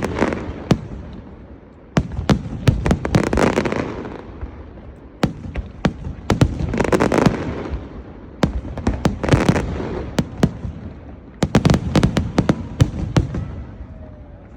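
Aerial fireworks display going off in volleys: clusters of sharp bangs and cracks every two to three seconds, each followed by an echoing rumble, easing off near the end.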